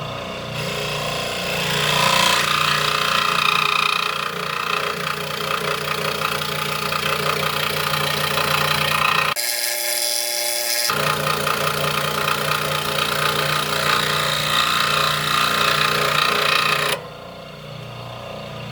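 Electric scroll saw running with its blade cutting through wood, a steady motor hum under the rasp of the cut. The cutting sound breaks off sharply for about a second and a half just past the middle, then resumes, and drops away near the end as the cut finishes, leaving only the quieter running of the saw.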